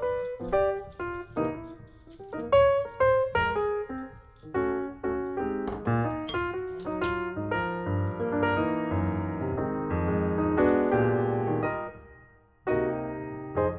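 Background piano music: a melody of quick, separate struck notes, with a short pause near the end before the notes resume.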